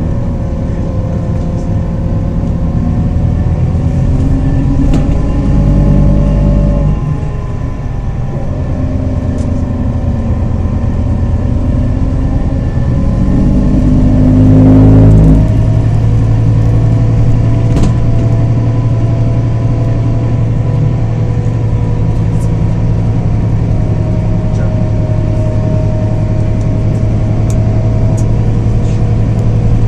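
Scania Irizar i4 bus's 320 hp Scania diesel engine, heard inside the bus, accelerating with its ZF six-speed automatic gearbox. The engine pitch climbs, falls sharply about seven seconds in and again about fifteen seconds in as the gearbox shifts up, then holds steady as the bus cruises.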